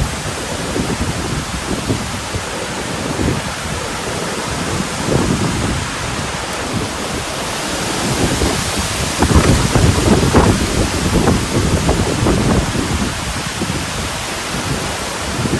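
Strong wind buffeting the microphone: a steady rushing noise with low rumbling gusts that grow louder about nine seconds in.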